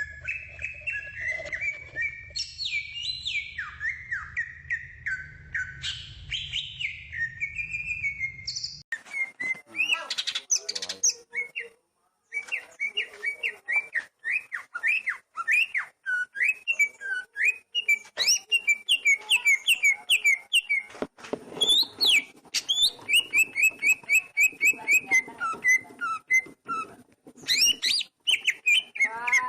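Oriental magpie-robin (kacer) singing: a varied run of clear whistled phrases and gliding notes, later fast trills of short repeated notes. The song jumps to a different recording about nine seconds in, with a brief gap near twelve seconds.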